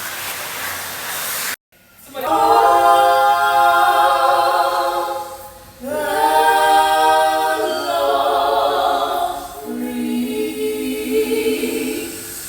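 A small group singing a gospel worship song a cappella in harmony, holding long drawn-out notes in three phrases. Before the singing there is a short stretch of noise that cuts off abruptly, about a second and a half in.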